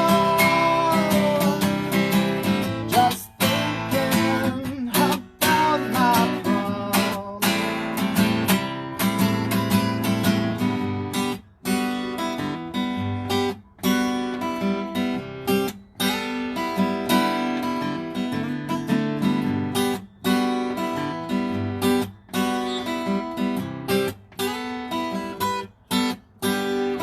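Live acoustic guitar song: a held sung note ends about a second in, then the acoustic guitar plays on alone, strumming chords with short breaks every couple of seconds.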